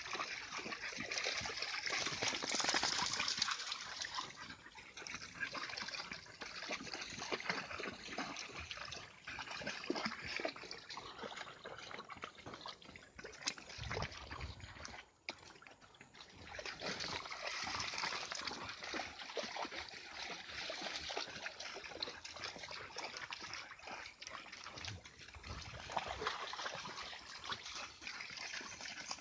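Water splashing and trickling as dogs wade through a shallow stream, with a short lull about halfway through.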